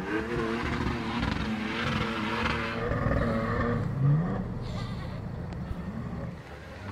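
Off-road 4x4 engine revving hard, its pitch rising and falling repeatedly, with a sharp rev-up about four seconds in.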